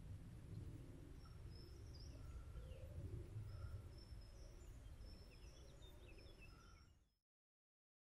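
Faint birdsong, short repeated whistled notes and calls, over a low outdoor rumble, fading out to silence about seven seconds in.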